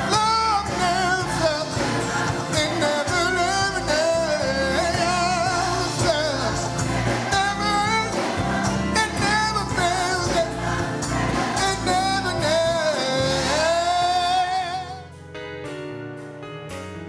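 Gospel singing with instrumental accompaniment. The voices stop about fifteen seconds in, and the music carries on more quietly.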